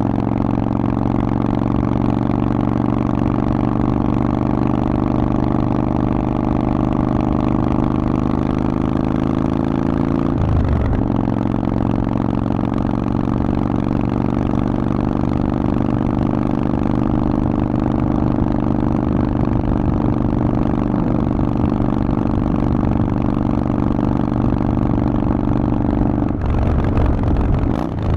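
Harley-Davidson Forty-Eight's air-cooled V-twin through a Vance & Hines exhaust, running steadily while riding. The note breaks off briefly and comes back at a new pitch about ten seconds in and again near the end, as on a gear change.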